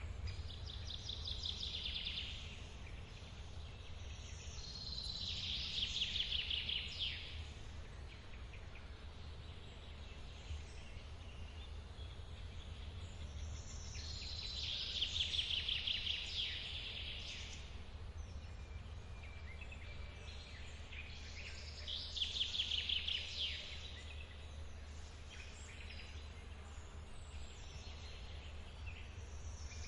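A songbird repeats a fast trilled song phrase about four times, several seconds apart, over the steady low rumble of a forest waterfall.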